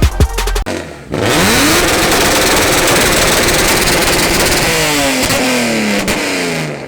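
Music cuts off under a second in, then an engine is revved hard through a very loud exhaust: the pitch climbs, holds at high revs, and falls away in several downward sweeps near the end. It is loud enough to leave ears ringing.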